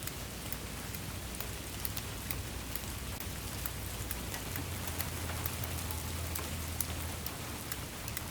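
Steady rain falling, a dense hiss with many distinct drops pattering and ticking, over a low steady rumble.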